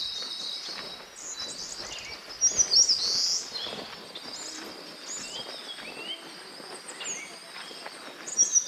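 Wild birds chirping and calling in short high notes, loudest about two and a half seconds in and again near the end, over a faint steady high-pitched tone.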